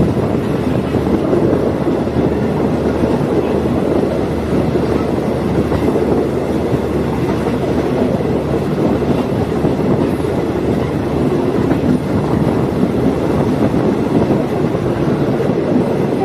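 Diesel multiple unit railcar travelling along the track: a steady, loud running noise of engine and wheels on rail.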